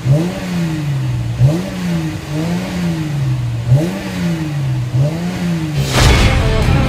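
2014 Mercedes-Benz C350's 3.5-litre V6 exhaust being revved in a series of throttle blips, each rev climbing quickly and dropping back slowly, about five times. Near the end, music cuts in.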